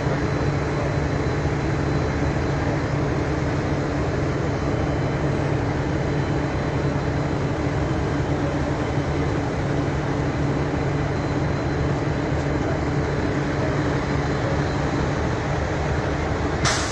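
A fire truck's engine running steadily close by, with a low, even hum that does not change. There is one brief click near the end.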